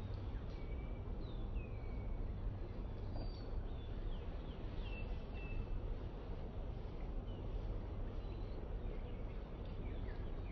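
Small birds chirping, with short high calls, some sliding down in pitch, scattered throughout over a steady low outdoor rumble.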